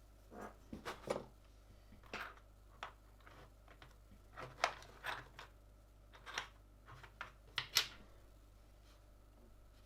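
Irregular plastic clicks and taps from a mechanical keyboard being assembled by hand, about a dozen, with the sharpest snaps about halfway through and near the end.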